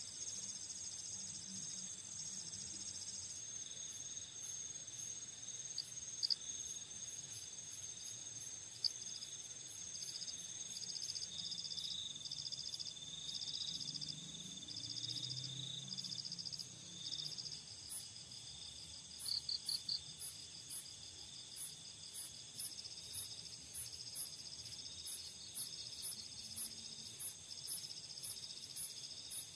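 Night chorus of crickets and other insects: overlapping trills and pulsed chirps, with a sharp high tick repeating about one and a half times a second in the second half.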